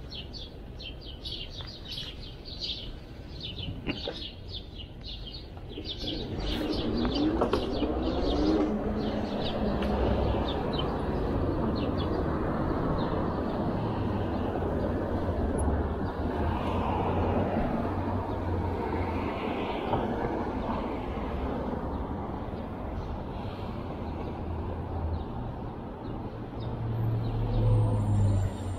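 Birds chirping rapidly for the first several seconds. From about six seconds in, a louder, steady rush of wind and street noise with a low hum takes over, typical of riding an e-bike along a city street.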